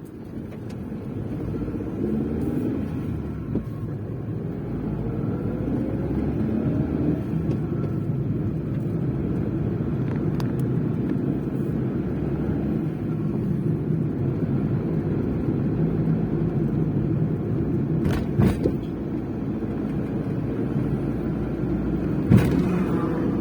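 Maruti Suzuki Eeco van driving, a steady engine and road rumble. Two short knocks come in the last few seconds, one at about 18 seconds and one at about 22.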